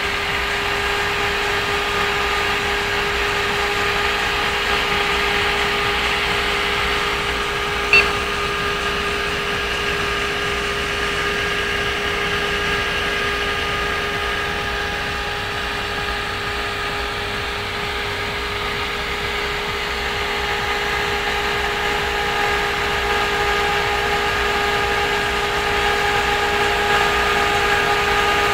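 NMB fan on a Thermolab Baram CPU cooler running at high speed, about 3600 rpm: loud, steady rushing air with a steady whine on top. A single sharp click about eight seconds in.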